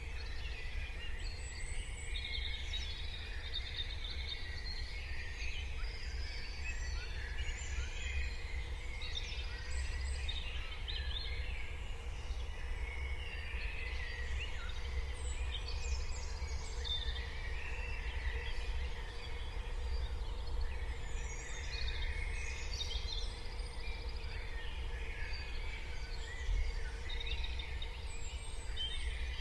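Morning chorus of many small songbirds chirping and trilling, overlapping, over a steady low rumble.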